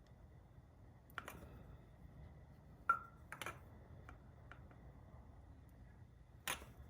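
A handful of light, sharp metallic taps and clicks, scattered a second or two apart, two of them ringing briefly: hand tools working a crankshaft radial seal into its bore, over a faint low hum.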